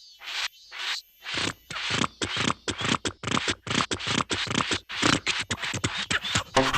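Cartoon sound effect of rapid, repeated scratching strokes, quiet and spaced at first, then louder and faster, about six a second, from just over a second in.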